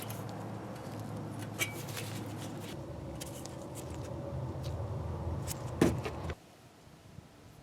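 A steady low machine hum with a few sharp clicks and a louder knock, cutting off suddenly about six seconds in.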